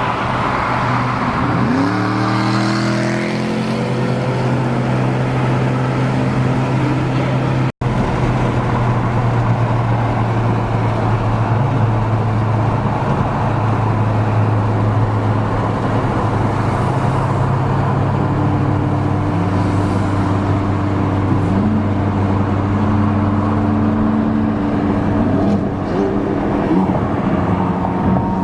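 Car engine running under way with road noise. It revs up with rising pitch about two seconds in, then holds a steady drone with small pitch changes later on.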